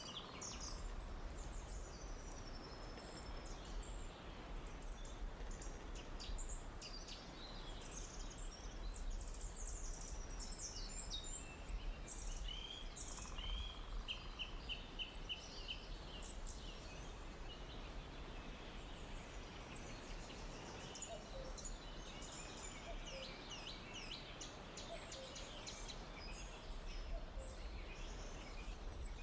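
Forest ambience: many small birds chirping and trilling, with a run of quick repeated notes about halfway through, over a faint steady background hum.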